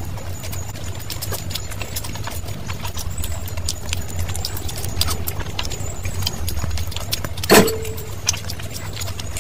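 Close-miked eating of saucy chicken and fried rice: a steady stream of wet chewing clicks and smacks over a steady low hum, with one louder click that rings briefly near the end.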